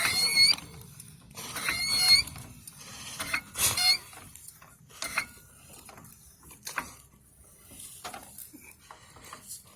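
Floor jack being pumped to lift a car: a high squeal on each of three handle strokes, about two seconds apart, then a few light clicks.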